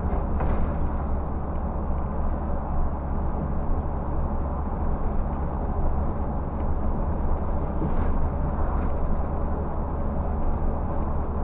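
Scania bus driving at steady road speed, heard from the driver's cab: a steady low engine drone with road and tyre noise.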